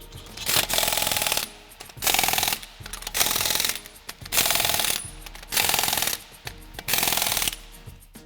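Impact wrench running down the wheel's lug nuts in six short rattling bursts, one per nut, about a second apart.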